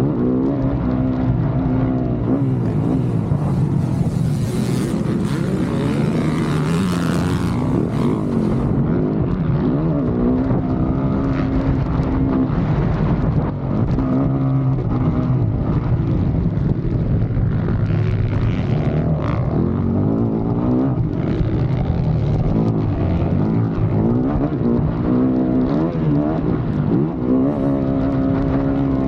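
Dirt bike engine under hard riding, revving up and falling back over and over as the rider works the throttle and shifts gears, with a rush of wind noise a few seconds in.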